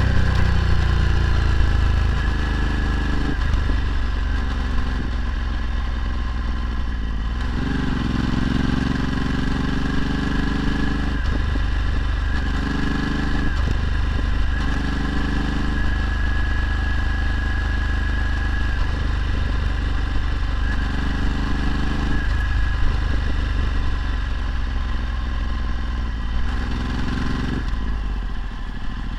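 Ducati Multistrada 1260's 1262 cc V-twin engine through a Termignoni exhaust, running under way. The note drops and climbs again several times as the throttle is closed and reopened.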